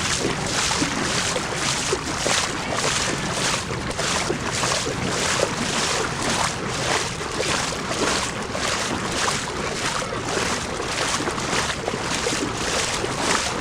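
Rhythmic splashing through deep floodwater, about two splashes a second, over a steady hiss of moving water.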